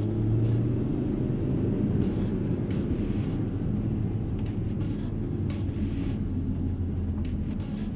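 Audi RS3's turbocharged 2.5-litre five-cylinder engine heard from inside the cabin, cruising at low speed with a steady low drone that eases slightly near the end. Tyre and road noise from the packed-snow road and a few short crackles run alongside it.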